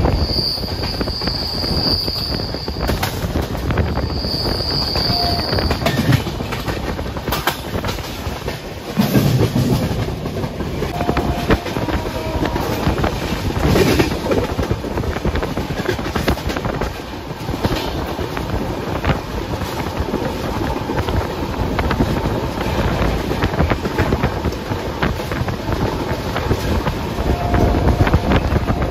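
Passenger express train running at high speed, heard from on board: the steady rumble of the coach with the clatter of wheels over rail joints. A high steady whine sounds twice in the first few seconds.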